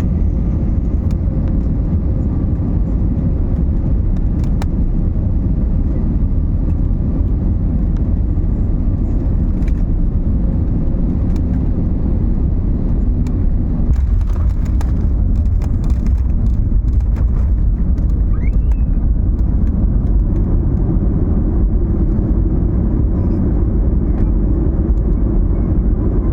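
Steady low rumble of an Airbus A320neo passenger cabin: engine and airflow noise, with a few faint clicks partway through.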